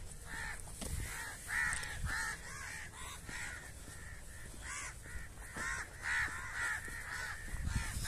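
Birds calling over and over: a steady run of short caw-like calls, a few each second, over a low rumble.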